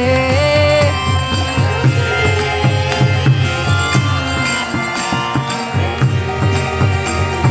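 Kirtan devotional music: a sung note ends about a second in, and the instruments carry on with a sustained drone under a steady rhythm of low drum strokes and light hand percussion.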